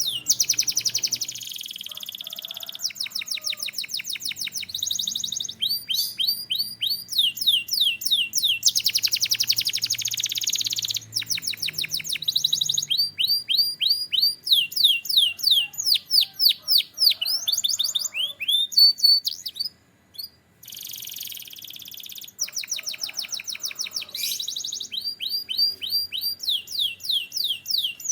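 Canary singing continuously in fast trills and rolls, each a run of rapidly repeated sweeping notes, with a brief break about two-thirds of the way through.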